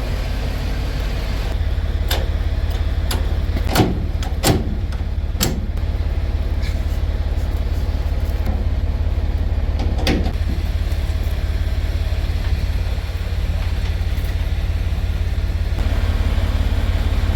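Semi truck's diesel engine running steadily, with a handful of sharp knocks and clicks in the first ten seconds or so.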